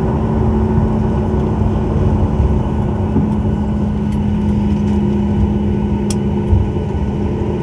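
Cabin noise inside a Boeing 737 MAX 9 on the ground just after landing: a steady loud rumble of the CFM LEAP-1B engines and airflow with a steady hum through it. A single sharp click about six seconds in.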